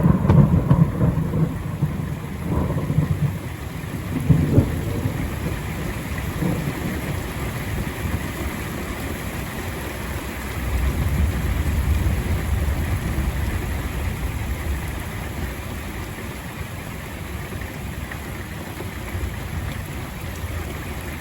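Thunder rumbling over steady rain. A loud rumble fades over the first few seconds, a short sharp crack comes about four seconds in, and a second deep rumble swells around ten seconds in and slowly dies away while the rain keeps falling.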